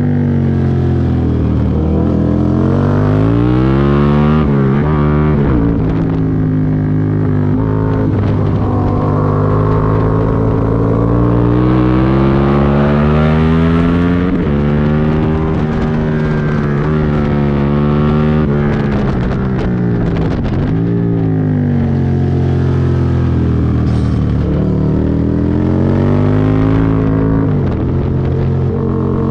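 Aprilia Tuono V2 1000 V-twin engine at racing speed, revving hard up through the gears, with its pitch falling steeply several times as the rider rolls off and downshifts for corners.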